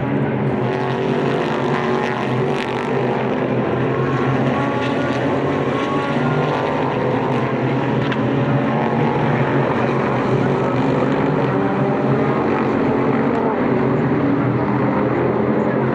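Several Super GT race car engines running at once, a steady, dense drone of overlapping engine notes whose pitches drift slightly up and down.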